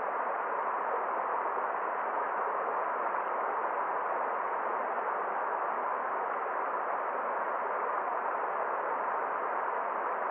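Forest stream flowing: a steady, even rush of water, dull-sounding with nothing in the high end.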